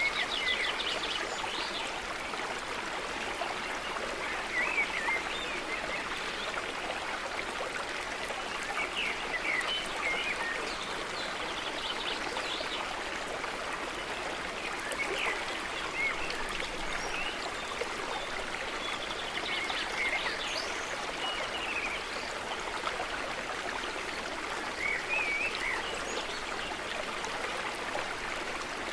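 Stream of water running steadily over rocks, with small birds chirping now and then above it.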